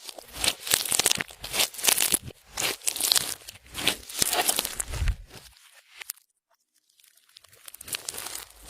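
Clear slime squished and worked by hand, with crackling and popping. The bursts come in a dense run, pause for about two seconds past the middle, then start again.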